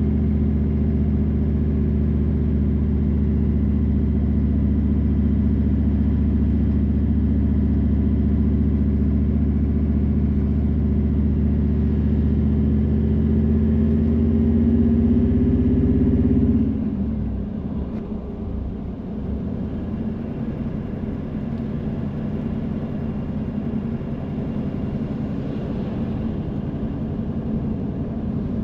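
Car driving, heard from inside the cabin: a steady engine and road drone that rises slightly in pitch and then falls away suddenly about halfway through, leaving a quieter, rougher road noise.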